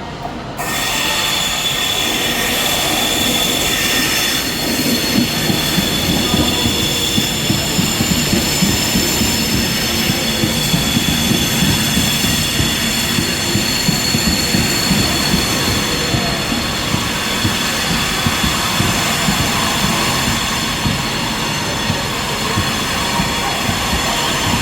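Train running on the rails with a steady high-pitched wheel squeal over the rumble, starting suddenly about half a second in.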